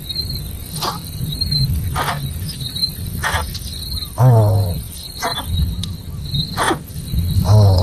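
Crickets chirping steadily, with short repeated chirps and two louder squealing calls, one about four seconds in and one near the end.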